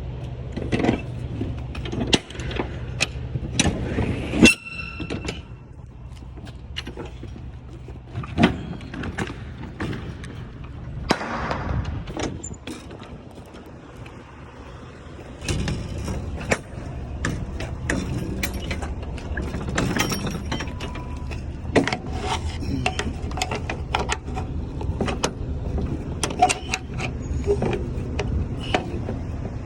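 Semi-truck's diesel engine idling steadily, under repeated clicks and knocks, with one sharp ringing metallic clank about four and a half seconds in.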